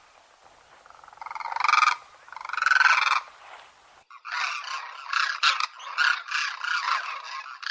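Common crane calling: two loud, rolling, pulsed trumpeting calls, each swelling as it goes. About four seconds in, the sound cuts abruptly to a denser, harsher, crackling stretch of rapid noise.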